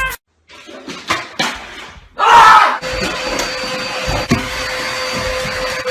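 A steady whirring motor with a constant hum and an even hiss. It starts after a short loud rush about two seconds in and is broken by a few light clicks.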